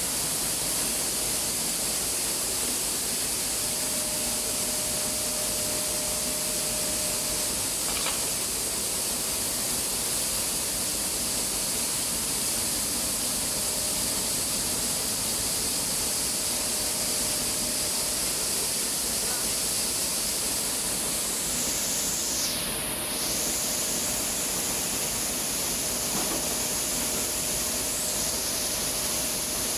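Rice milling plant machinery running steadily: a constant, loud rushing hiss-like noise with no breaks.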